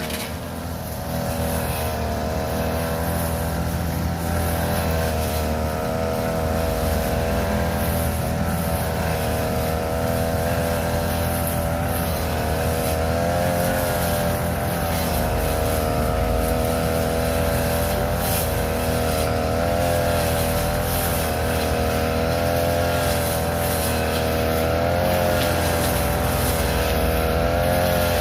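Small engine of a grass-cutting machine running steadily at high speed while cutting thick, weedy grass, its pitch wavering slightly as the load changes.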